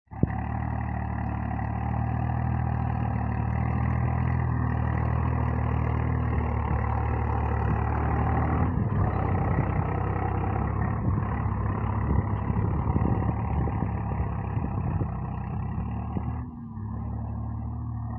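Swaraj 744 tractor's diesel engine running steadily, rougher and more uneven through the middle stretch, and dropping in level a little before the end.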